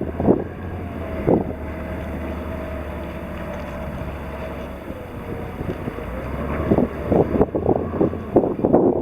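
Boom boat's engine running steadily as it works logs, with a low hum and an engine note that dips about halfway through. Wind buffets the microphone in gusts near the start and toward the end.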